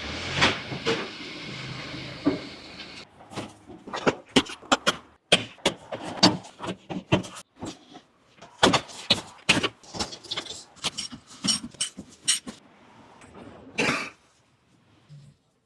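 A run of short, sharp clicks and knocks with brief silent gaps between them, over a steady hiss for the first three seconds.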